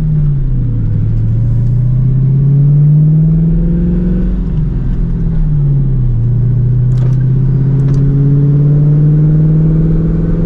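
New Edge Mustang GT's 4.6-litre V8 pulling the car along the road. The engine note climbs steadily and drops sharply twice, about a second in and again about five seconds in, as it shifts up through the gears.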